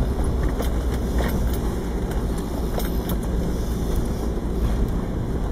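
Mercedes-Benz G-Class engine running low and steady in first gear as the car crawls along a rutted dirt track, heard from inside the cabin, with scattered clicks and rattles.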